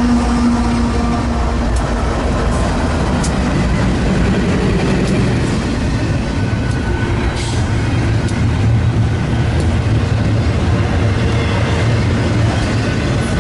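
Train passing close by: a steady, loud rumble of rolling wheels, with scattered sharp clicks and a steady hum that fades out in the first couple of seconds.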